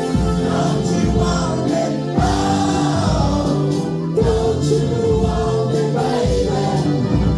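A choir singing held chords without clear words over backing music with a steady bass beat; the chord changes about every two seconds.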